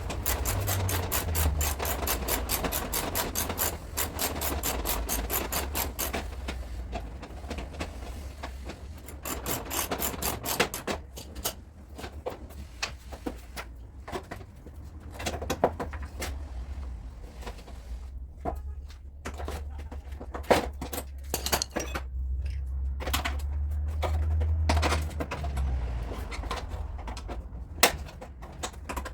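Hand-tool work on car body metal: rapid rubbing or filing strokes for about the first six seconds, then scattered sharp taps and short scraping passages, over a steady low hum.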